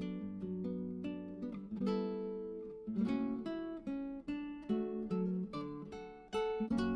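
Background music: plucked acoustic guitar, with chords sounding every second or so and ringing out between.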